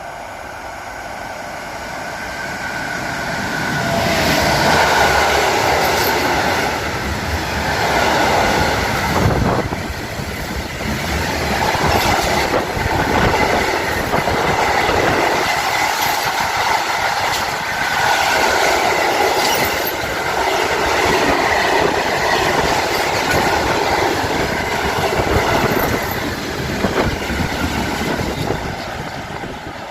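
Train passing through a station, its wheels clattering over the rail joints as car after car goes by in repeating swells, with some squeal from the wheels. The sound builds over the first few seconds and eases near the end.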